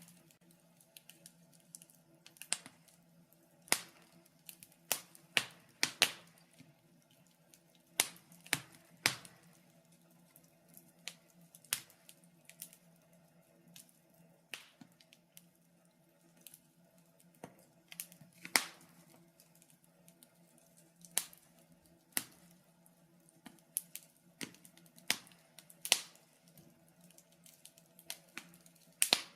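Wood fire in a fireplace crackling: sharp, irregular pops and snaps, about one a second, over a faint steady low hum.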